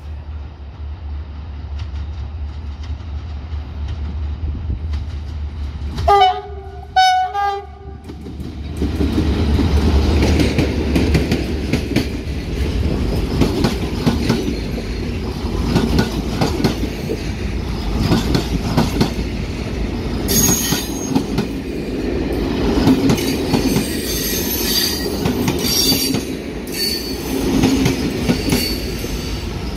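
Diesel locomotive engine running with a low drone, then two short horn blasts about six seconds in. The train then rolls by, its wheels clattering over the rail joints, with brief high wheel squeals in the second half.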